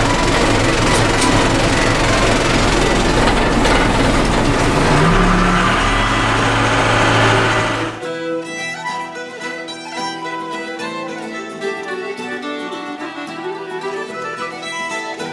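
Loader's engine running, stepping up in pitch about five seconds in; about eight seconds in it cuts off abruptly to fiddle music playing an Irish reel.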